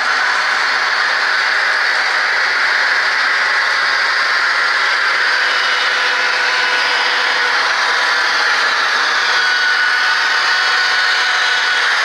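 HO scale model train running along its track: a steady whir of wheels and motor, with a faint high motor whine coming in near the end.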